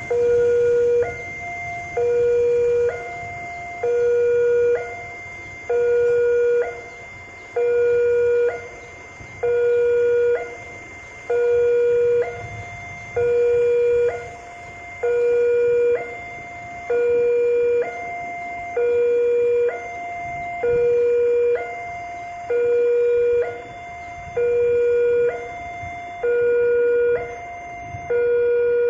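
Indonesian railway level-crossing warning alarm sounding, alternating between a lower and a higher tone about once a second: the signal that a train is approaching and the gates are closing.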